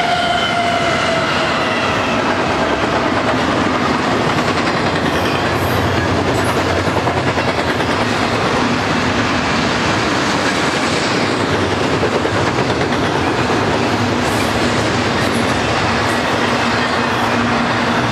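Double-stack intermodal well cars of a freight train rolling past close by: a steady rumble and clatter of steel wheels on rail. In the first couple of seconds a whine from the GE ES44 locomotives that have just passed drops in pitch and fades away.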